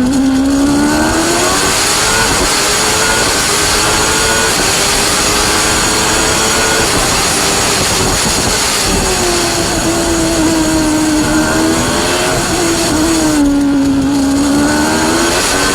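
1993 Formula One car engine heard onboard, revving hard: its pitch drops low near the start and again a little before the end, as for slow corners, and climbs again in between, over steady wind and tyre noise.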